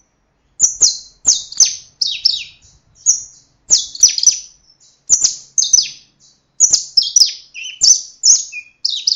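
A songbird singing loudly: quick high-pitched notes, most sweeping downward, delivered in short bursts of two or three with brief gaps between them.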